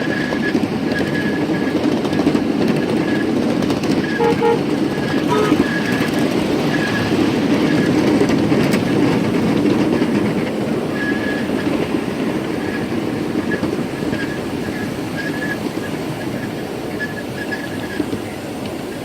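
Ride-on scale live steam train running along the track: a steady rumble of wheels with clicking over the rail joints and an on-and-off high squeal. A brief toot sounds about four to five seconds in.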